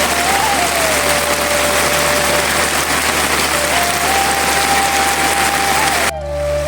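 Heavy, steady rain with a slow flute melody over it. The rain cuts off suddenly near the end, leaving the flute.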